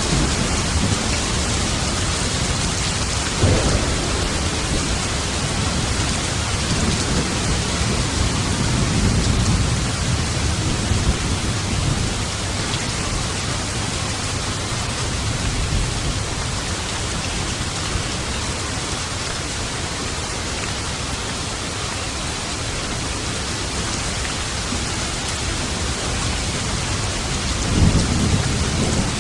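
Steady heavy rain with thunder: a sharp clap about three and a half seconds in, a longer low rumble around nine seconds, and another clap near the end.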